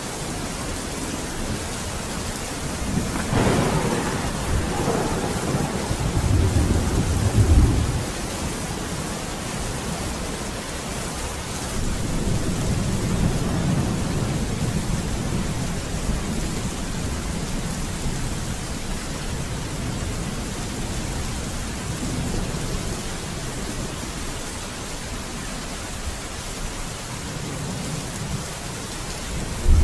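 Steady heavy rain with rolling thunder: a crack about three seconds in that rumbles on and grows loudest near the eight-second mark, then a second long low rumble a few seconds later and fainter rumbles after it.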